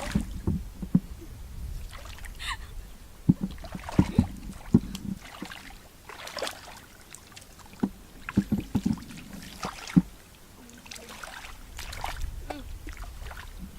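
Irregular water sounds of wading or hand-fishing: short splashes and sloshes mixed with sharp knocks, about a dozen spread unevenly across the stretch.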